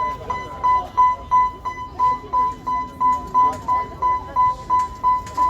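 Level-crossing warning alarm beeping, one high electronic tone repeated evenly about three times a second, over murmuring voices.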